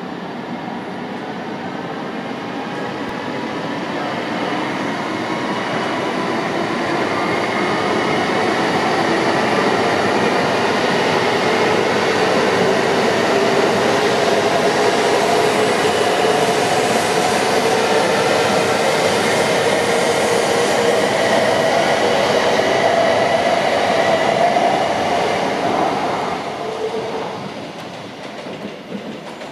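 Tohoku Shinkansen E4 series Max double-decker train running along the platform tracks: a loud steady rush of wheels and running gear with a faint motor whine. It builds over the first several seconds, holds, then fades over the last few seconds.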